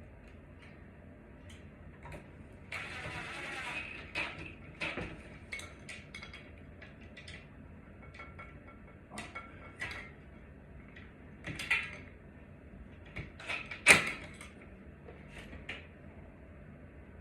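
Scattered knocks and clicks of parts and tools being handled, with a brief scraping rush about three seconds in and one sharp, loud knock near the end.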